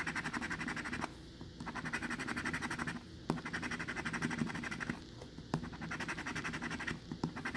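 Scratch-off lottery ticket being scratched in quick back-and-forth strokes, in bouts of about one and a half seconds with short pauses between. The coating is stiff to scratch off.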